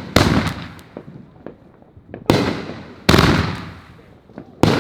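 Fireworks mortar shells going off: four loud bangs, each trailing off in a long fading rumble, with a few small crackles between them.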